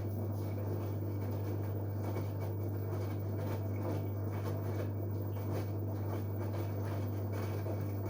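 LG Direct Drive 8.5 kg washing machine during a wash cycle: a steady low hum with rushing water that cuts off suddenly near the end.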